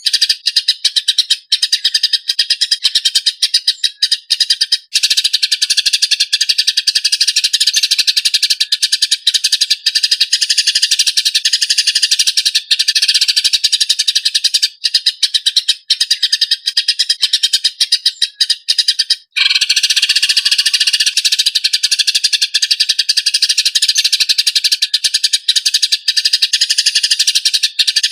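Eurasian tree sparrow fighting calls: a rough, rapid, dense stream of chirps, broken only briefly about two-thirds of the way through.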